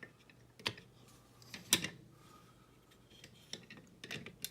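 Small parts of a scale model car kit clicking and tapping as they are handled and pressed together, with scattered sharp clicks, the loudest about one and two seconds in and a cluster near the end.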